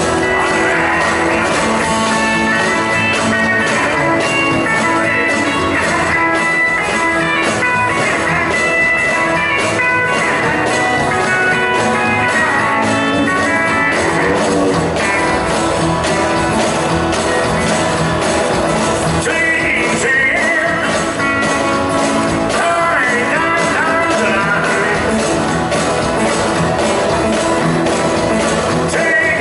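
Live rock and roll band playing at full volume, with electric guitar, a steady drum beat and a voice singing at times.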